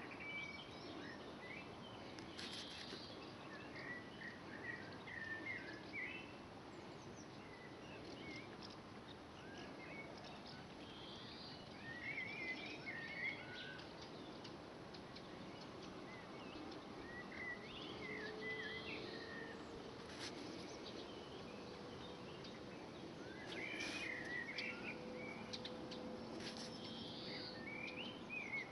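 Faint bird chirps in short twittering phrases every few seconds over a steady background hiss, with a few soft clicks.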